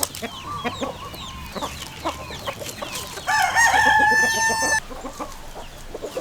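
A rooster crows once, a long held call of about a second and a half starting about three seconds in, over clucking chickens and many short chirps.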